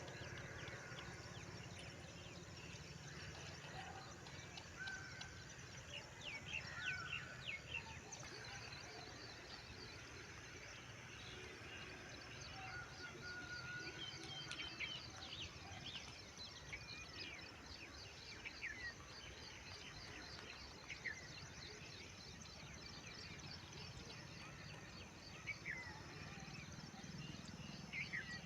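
Birds chirping, short scattered calls over a steady outdoor background hum. From about eight seconds in, a fast, even high-pitched ticking trill runs on beneath them.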